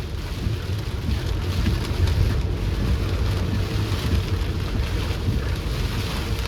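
Rain falling on a moving car, with a steady low rumble of road and tyre noise under the hiss of the rain. The sound swells slightly in the first second.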